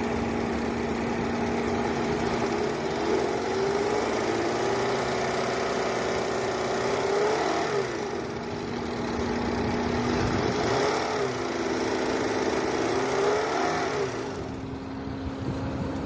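Car engine being revved from idle and let back down about four times, the pitch rising and falling each time over a steady hum. This is the engine noise on acceleration that the inspection flags as abnormal.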